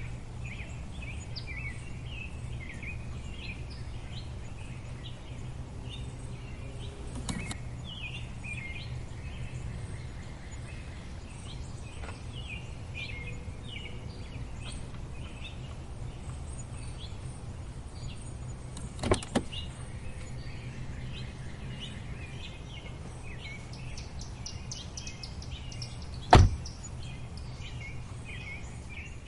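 Many short bird chirps over a steady low rumble, broken by a few sharp clicks or knocks, the loudest of them about three seconds before the end.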